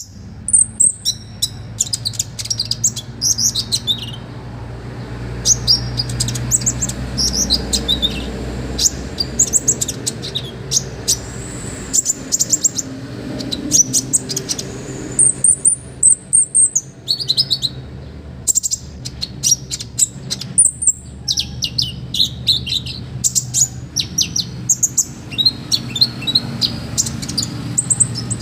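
Konin songbird singing energetically in rapid, high-pitched phrases of sharp chirps, trills and whistled sweeps, with hardly a pause, over a steady low hum.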